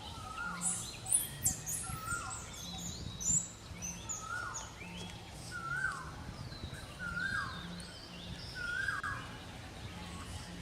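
Birds calling: one bird repeats a short, hooked call about once a second, with quick high chirps and twittering over the first few seconds.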